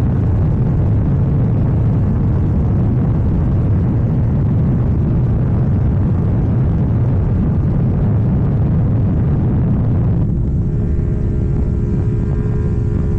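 KTM Duke 790 parallel-twin engine with an Arrow full exhaust system, running under way with heavy rushing wind noise. About ten seconds in, the rush drops away and a steadier engine note with a few held tones comes through.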